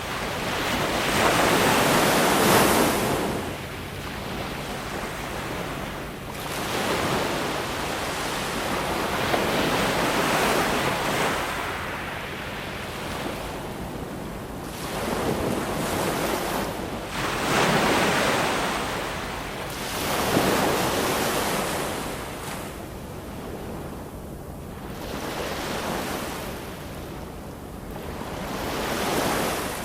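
Ocean waves breaking and washing up on a shore, the surf swelling and fading about every three to five seconds.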